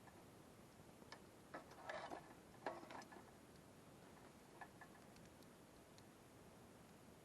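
Wood campfire crackling quietly: scattered sharp pops and ticks, with a short burst of louder crackles about two to three seconds in.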